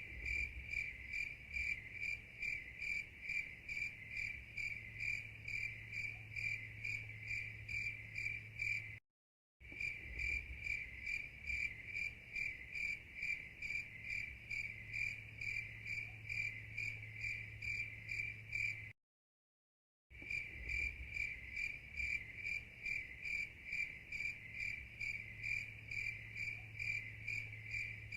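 Steady rhythmic chirping like an insect's, about three chirps a second, over a low steady hum; it cuts out completely twice for about a second.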